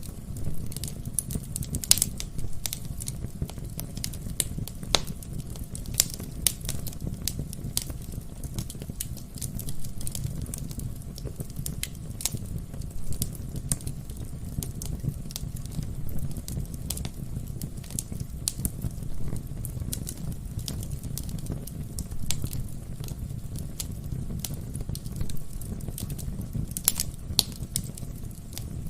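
Wood fire burning in a fireplace, the logs crackling and popping in irregular sharp snaps over a steady low rumble of the flames.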